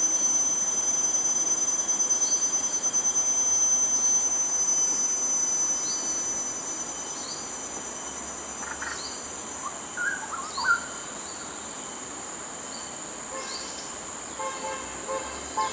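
Steady high-pitched insect trilling, fading after about six seconds, with a short rising chirp repeating about every second and a few brief whistled bird notes near the middle.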